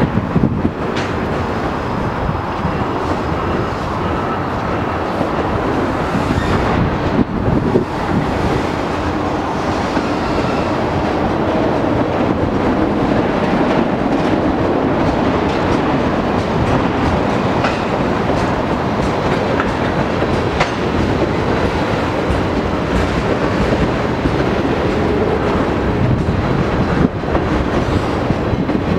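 Freight cars, rail-loaded flatcars and tank cars, rolling steadily past close by: a continuous rumble of steel wheels on track with scattered wheel clicks.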